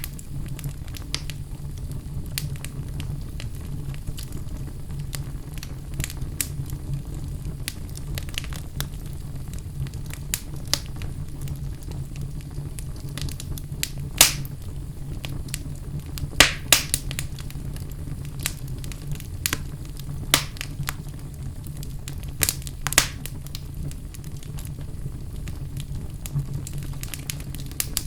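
Wood fire burning in a fireplace: a steady low rumble with scattered sharp crackles and pops, a few of them loud.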